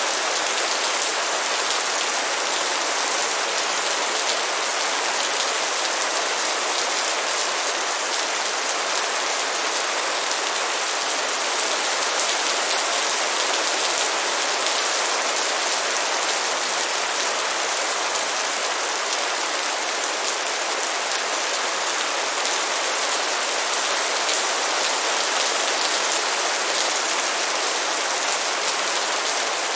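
Light rain falling steadily: an even hiss of many fine drops, with no let-up or change.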